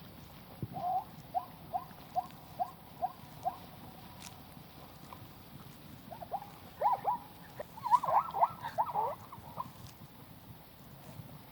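An animal's short, squeaky calls: a run of about seven evenly spaced chirps, roughly two a second, then after a pause a denser, louder burst of calls.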